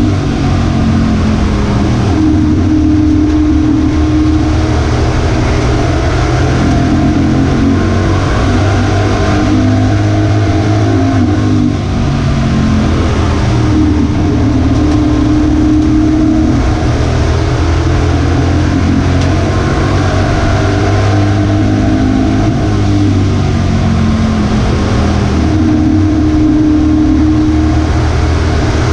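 V8 pro truck engine running hard at racing speed, its pitch rising and falling every few seconds as the throttle is worked.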